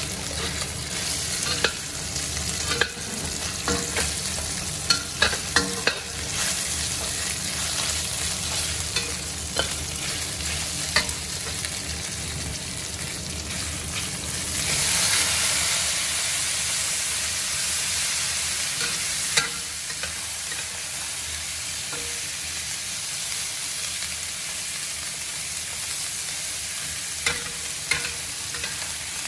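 Meat pieces frying in oil in a stainless steel wok, with a steady sizzle and a metal spatula scraping and clinking against the pan as they are stirred. The sizzle swells louder for a few seconds about halfway through.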